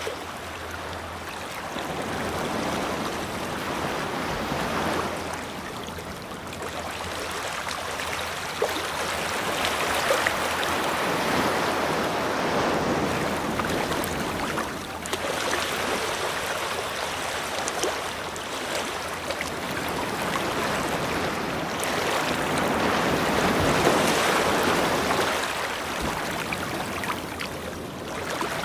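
Ocean surf washing onto a beach: a continuous rush of water that swells and eases in slow surges every several seconds.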